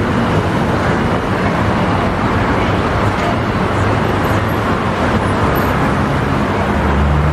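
Steady, loud roar of road traffic. A deeper, steady engine hum sets in near the end.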